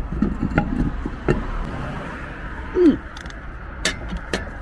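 Steady road traffic noise with scattered sharp clicks and knocks, and a short falling squeak about three seconds in.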